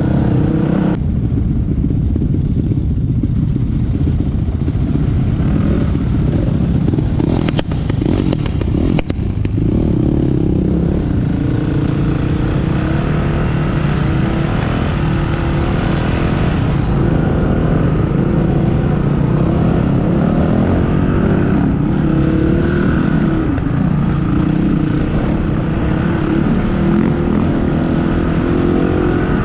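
Motorcycle engine running continuously while riding, its pitch shifting slightly up and down.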